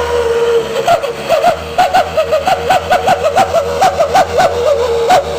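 Box truck's 'serigala' wolf exhaust whistle sounding: a held whistle tone for the first half-second, then from about a second in a fast warble that jumps up in pitch and back about five times a second, with sharp clicks between.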